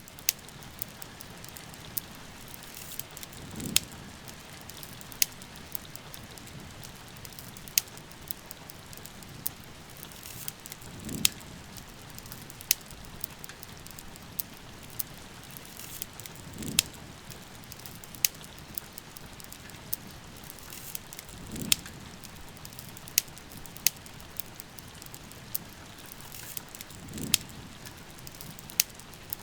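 Steady rain falling, with a wood fire crackling over it in sharp, irregular pops. A soft low swell rises and fades every five or six seconds.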